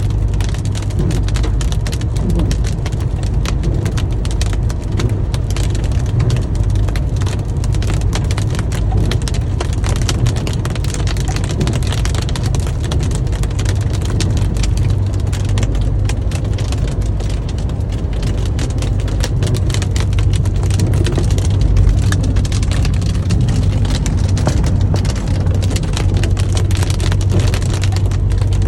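Hail and rain pelting a car's body and glass in a dense, unbroken patter of rapid ticks, over the steady low drone of the car driving.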